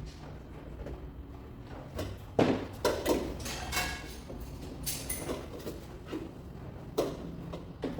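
Scattered light knocks and clunks of metal dent-repair tools against a car hood panel, with a short squeaky ring near the middle.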